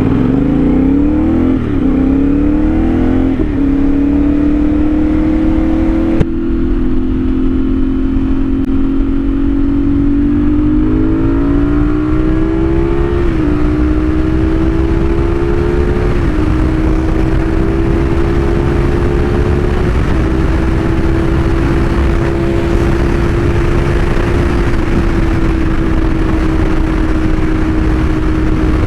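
CFMOTO 450SS parallel-twin engine with an aftermarket slip-on exhaust, accelerating hard through the gears. The engine note climbs and drops back at each of several upshifts, then holds steady at a cruise for the last several seconds.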